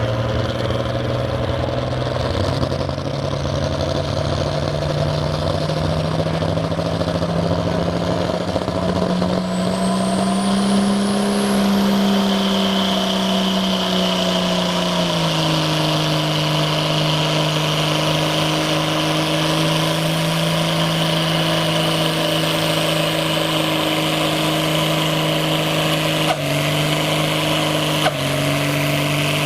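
Diesel pickup truck engine running hard under load while pulling the sled, its pitch rising slightly and then settling lower midway. A high whine joins about twelve seconds in, and the pitch dips abruptly twice near the end.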